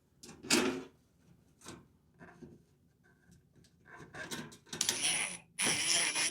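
Knocks and rattles of a refrigerator's rear cover panel being handled and fitted back on, with one loud knock about half a second in and two short noisy bursts of about half a second each near the end.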